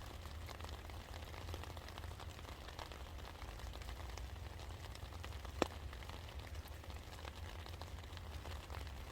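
Steady rain falling, with many separate drops ticking on surfaces and a steady low rumble underneath. One drop lands louder and sharper than the rest about five and a half seconds in.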